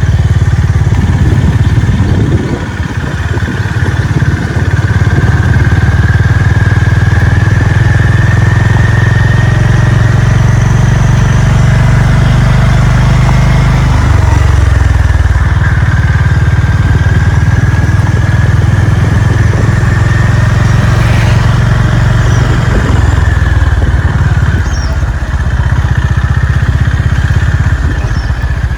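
Honda CB350 RS single-cylinder engine and exhaust running while riding. It is loud and steady, easing off briefly a few seconds in and changing engine speed a couple of times later on.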